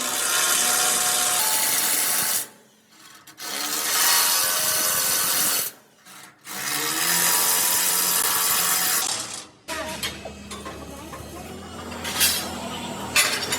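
A power tool grinding or cutting in three long bursts of a few seconds each, with short pauses between; after them a quieter low hum with scattered clicks and knocks.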